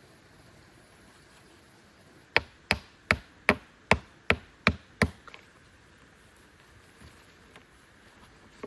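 Eight sharp blows striking wood in quick succession, about two and a half a second, then stopping.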